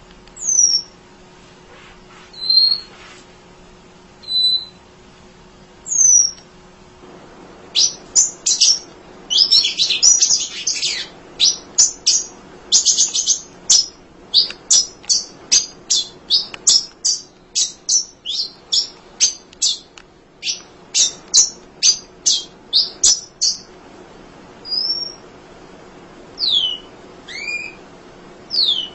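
Munia (emprit) calling: a few thin, high calls sliding downward in pitch, then a fast run of sharp, high chirps at about two a second through the middle, and more sliding calls near the end.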